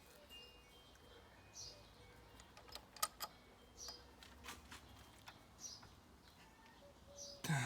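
Faint, scattered clicks and taps of tools and parts being handled at an engine, the loudest about three seconds in and near the end, with a bird chirping every couple of seconds.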